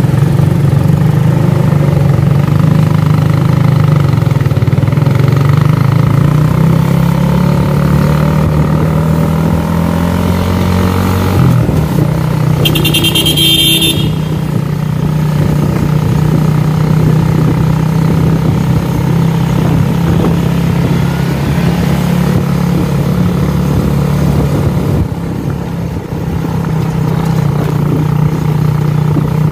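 Motorcycle engine running under way in traffic, its pitch climbing as it speeds up from about six to eleven seconds in, then holding steady. A brief shrill high-pitched sound cuts in about thirteen seconds in.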